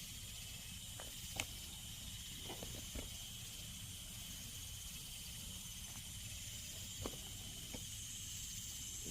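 Steady outdoor insect chorus, a continuous high trill at two constant pitches, with a few short clicks or crunches, the sharpest about a second and a half in.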